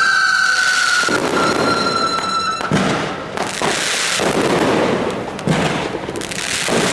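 Fireworks going off: a high whistle slowly falling in pitch that fades about two and a half seconds in, over dense crackling, with sharp bangs about three, five and a half, and seven seconds in.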